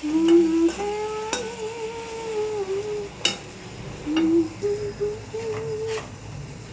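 A woman humming a slow tune in long held, gliding notes, while a metal utensil clinks sharply against a pan about four times, over a faint sizzle of frying oil.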